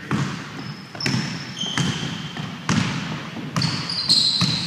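Basketball bouncing on an indoor court, about six echoing thuds at uneven spacing, with shoe squeaks on the floor about half a second in and again near the end.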